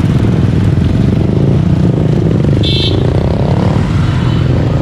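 Street traffic: vehicle engines running close by, one rising in pitch as it speeds up about a second and a half in, with a brief high-pitched beep near the middle.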